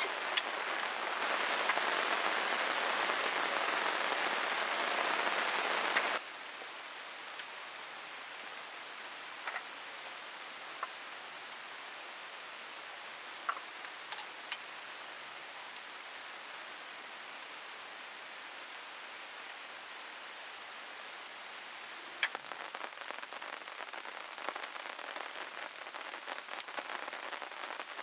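Rain falling, with drops tapping on plastic sheeting: a dense, louder downpour that cuts off abruptly about six seconds in, then a quieter steady rain with scattered single drop taps, more frequent near the end.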